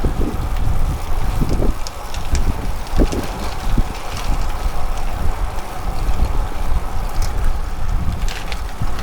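Steady rumble of travel in motion, with wind buffeting the microphone.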